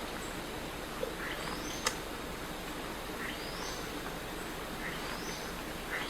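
A bird calling repeatedly, a high call that slides downward, given roughly every second and a half over steady outdoor hiss. A single sharp click about two seconds in.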